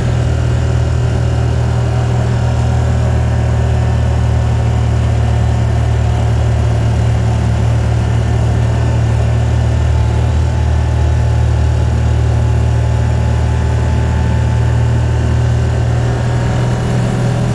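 Steady low engine and road drone of a car heard from inside the cabin while driving, unchanging throughout.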